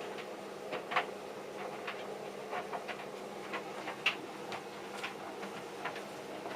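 Two tumble dryers, a Hotpoint vented and a John Lewis heat pump dryer, running with a steady hum while loads of jeans tumble inside, their buttons and zips tapping the drums in irregular clicks, about two a second.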